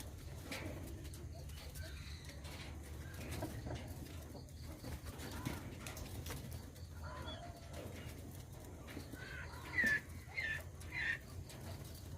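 Birds calling over a steady low hum. Near the end come three loud short chirps, each sliding down in pitch.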